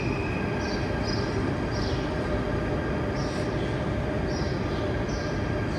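Stationary Dutch NS double-decker electric train standing at the platform with its doors open, giving a steady hum. Short faint high chirps come every half second to a second.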